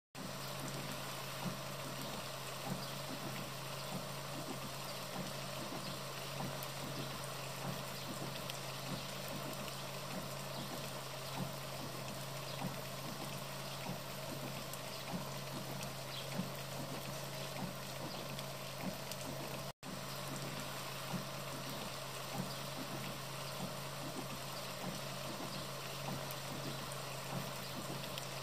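Steady hiss of rain and running water, with scattered faint drips and a steady low hum underneath. The sound cuts out for an instant about two-thirds of the way through.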